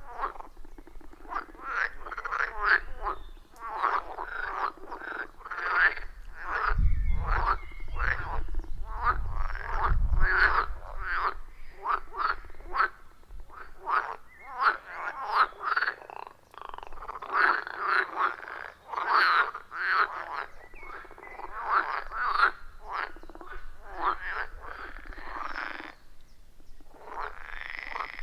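Chorus of pond frogs croaking, many short calls overlapping in quick succession. A low rumble runs underneath for about three seconds, starting around seven seconds in.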